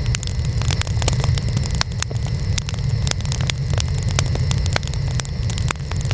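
Wood fire burning, with irregular sharp crackles and pops several times a second over a steady low rumble of flames.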